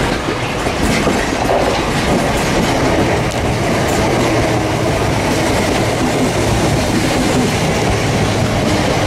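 Gatwick Express Class 442 electric multiple unit passing close by at speed: a steady loud rush of wheels on rail and air, with scattered sharp clicks as the wheels cross rail joints.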